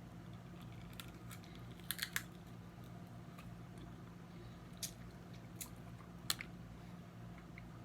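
Close-up eating sounds of snow crab legs: sharp snaps and clicks of the shells being cracked, a quick cluster of three about two seconds in and single snaps later, with chewing, over a steady low hum.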